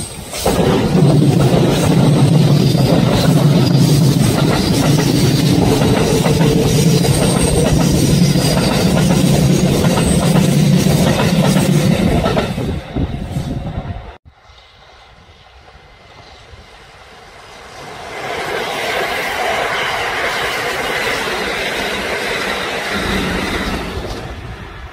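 Kintetsu electric train passing through, its wheels clattering rapidly over the rail joints for about twelve seconds before fading. After an abrupt cut, a second passing vehicle swells and fades.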